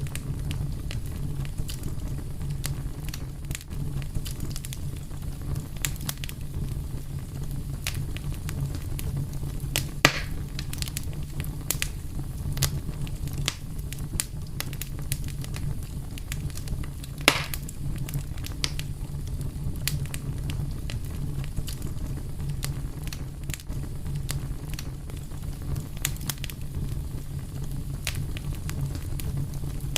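Wood fire burning with a steady low rumble and scattered sharp crackles and pops, two louder pops about ten and seventeen seconds in.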